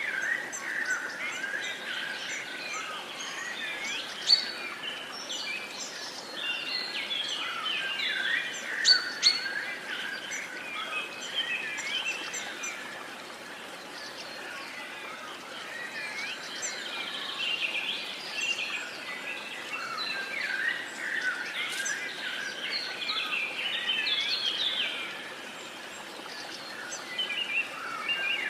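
A dense chorus of many songbirds chirping and singing over each other, with a couple of louder sharp calls and brief lulls, over a faint steady background hiss.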